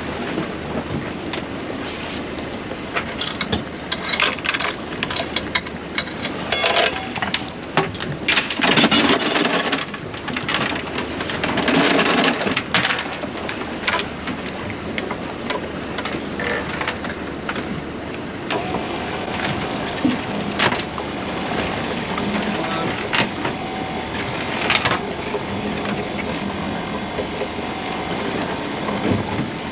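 Working a small open fishing boat at sea while hauling nets: irregular knocks and clatter over a steady wash of wind and water noise, with the clatter thickest in the first half. A faint steady hum comes in about two-thirds of the way through.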